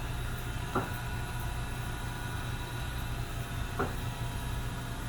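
Steady low hum of the RV's air conditioner running, with two short knocks about three seconds apart.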